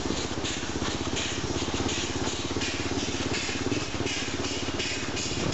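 Kawasaki KLR650 single-cylinder four-stroke motorcycle engine running steadily at low road speed. A rhythmic hissing pulse, about three a second, sits over the engine note.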